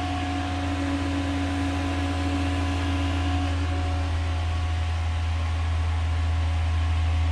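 Steady electric hum and rush of air from a fan-forced radiator heater running on hot water from an outdoor wood boiler. A couple of higher steady tones in the hum fade out about halfway through.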